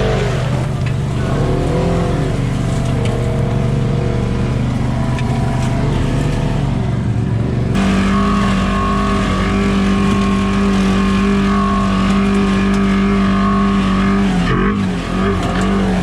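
Side-by-side UTV engine running at steady revs. About eight seconds in the sound cuts abruptly to a higher, steady engine note.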